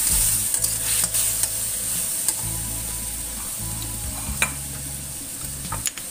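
Shrimp and tomato sizzling in hot oil in a stainless steel wok, a steady hiss. A slotted spatula stirs and scrapes against the metal pan in the first part, with a few sharp clicks of spatula on wok, the loudest about four and a half seconds in.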